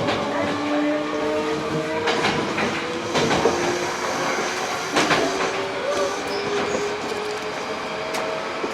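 Hankyu 8000 series train's Toshiba GTO-VVVF inverter whining under the car floor, heard from inside the car: several pitched tones rise gently and drop to new pitches in steps. Wheels run over the rails, with a few sharp knocks from rail joints about two, three and five seconds in.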